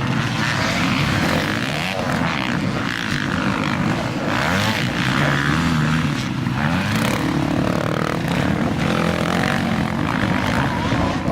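Several motocross bikes revving up and down at once, their engine pitches rising and falling over one another.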